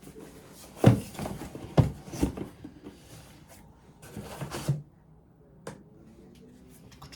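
Rummaging through a crammed container of household things: three sharp knocks and clatters in the first couple of seconds, a short stretch of rustling later, then a single click.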